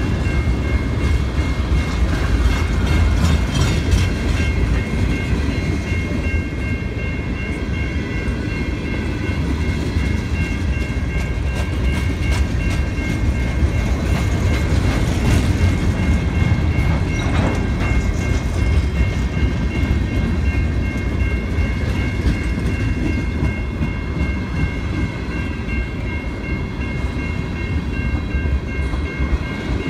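Norfolk Southern freight train of covered coil steel cars rolling past, a steady rumble with wheels clicking over rail joints. A grade-crossing bell rings steadily over it.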